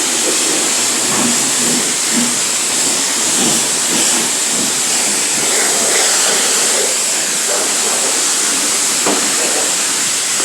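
Self-serve car wash high-pressure spray wand jetting water onto a car's body, a steady loud hiss.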